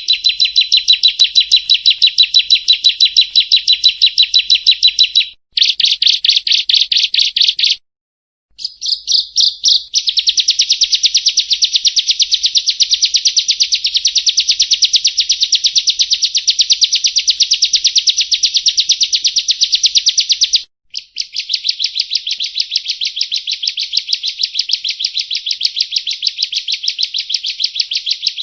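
Prinia (perenjak) song: long, loud runs of rapidly repeated high chirping notes, broken by a few brief pauses.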